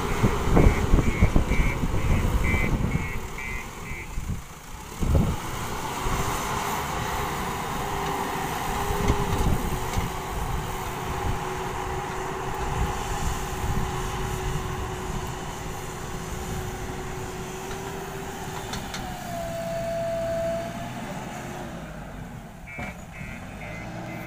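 JCB backhoe loader's diesel engine working under load, with a steady whine through the middle and a single knock about five seconds in. Its reversing alarm beeps for the first couple of seconds and again near the end.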